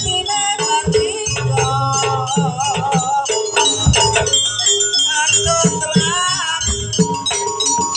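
Jaranan ensemble music: drum strokes and metallic percussion under a wavering melody line.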